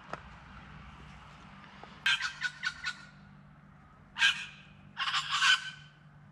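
A bird calling from a flowering eucalyptus: harsh, raspy calls, first a quick run of about five notes about two seconds in, then two more harsh calls near the end.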